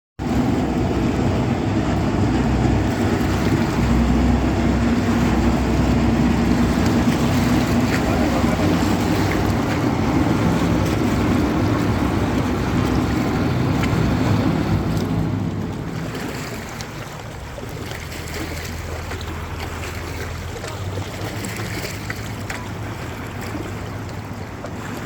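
Boat engine running steadily under a broad rush of water and wind, growing quieter about 15 seconds in.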